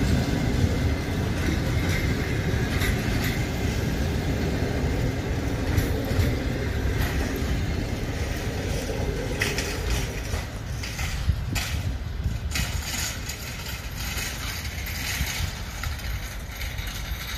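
Passenger coaches of a departing train rolling slowly past, their wheels rumbling on the track, with a few sharp knocks a little past the middle. The sound fades gradually as the last coach draws away.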